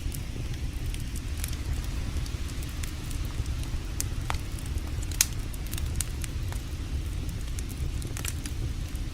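Wood campfire crackling, with scattered sharp pops and snaps, the loudest a little past halfway, over a steady low rumble.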